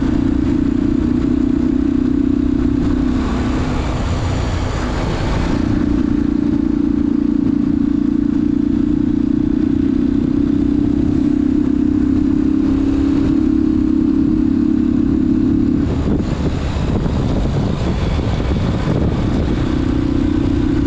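Bajaj Pulsar 180 single-cylinder engine with a K&N air filter running with a steady note. The note breaks into a rougher, noisier sound twice: a few seconds in, and again about three quarters of the way through.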